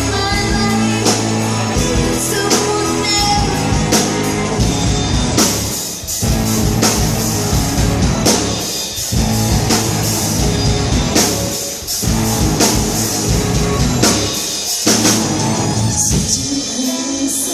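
A rock band playing: drum kit and guitars, with some singing.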